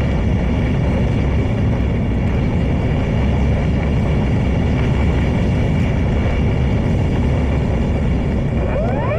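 Heavy wind buffeting on the microphone, with the faint steady whine of an E-flite Draco RC plane's electric motor under it; near the end a whine rises quickly in pitch as the throttle comes up.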